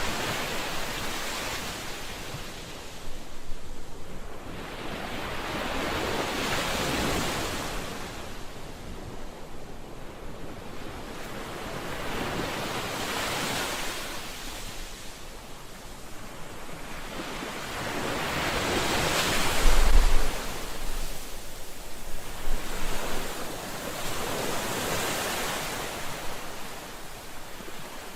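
Ocean waves breaking and washing ashore, surging and receding in swells every few seconds, the loudest surge about two-thirds of the way through.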